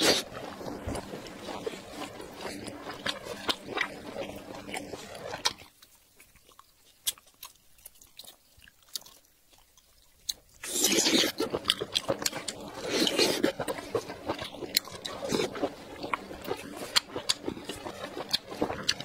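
Close-miked chewing of soft, sticky braised meat, full of wet clicks and mouth noises. It stops for about five seconds in the middle, then resumes loudly for the rest.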